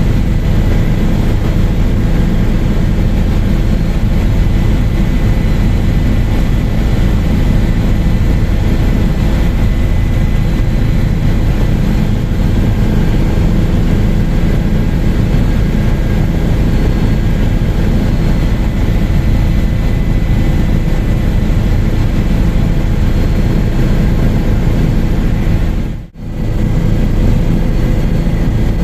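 Helicopter in flight: a steady, loud drone of rotor and engine with a few constant tones over it, broken by a brief dropout near the end.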